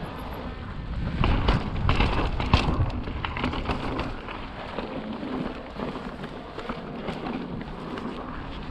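Mountain bike rolling over slickrock: tyre noise and the rattle and clicking of the bike, with wind buffeting the microphone. It is loudest and bumpiest from about one to three seconds in.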